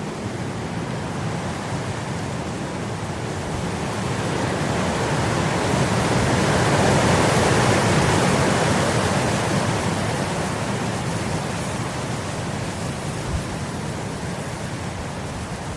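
Wind blowing across grass, a steady rushing that builds into a stronger gust around the middle and then dies back down.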